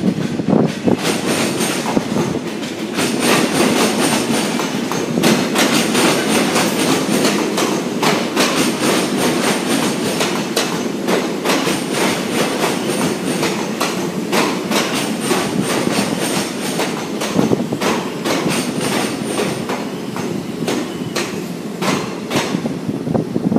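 Ganz Mavag electric multiple unit rolling past, its wheels clicking over rail joints and points with a steady rumble. A faint high squeal from the wheels comes and goes.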